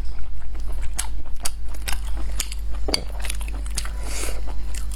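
Close-miked eating: a person chewing, with a string of short wet mouth clicks and a brief noisy slurp or breath about four seconds in, over a steady low hum.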